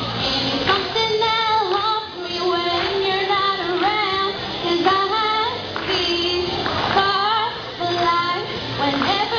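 A young female singer sings a pop song melody over instrumental accompaniment.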